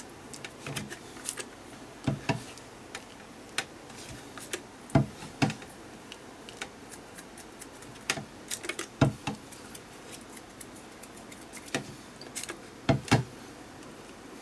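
Irregular light taps and clicks, some in quick pairs, as water is flicked onto an art journal page.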